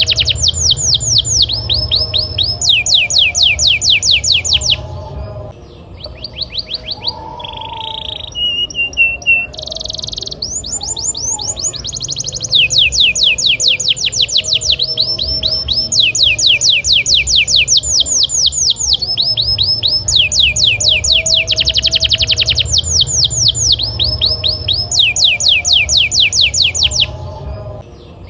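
Canary singing loud, continuous song made of rapid rolls: fast down-slurred whistles repeated several times a second, each run at a different pitch. The song thins to a few scattered notes for a few seconds a little over a quarter of the way in, then resumes, and pauses briefly near the end.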